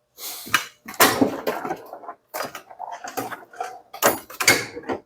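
Someone rummaging through tool drawers: an irregular series of clattering knocks of metal tools and parts, with drawers opening and shutting.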